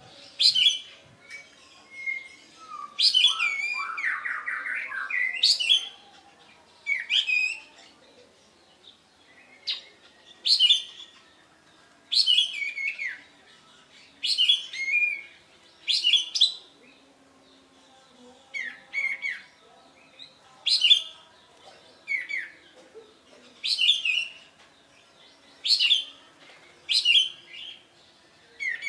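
Kapas tembak (white-shouldered triller) singing: short, sharp, high calls that sweep downward, repeated every one to two seconds, with a longer lower warbling phrase about three seconds in.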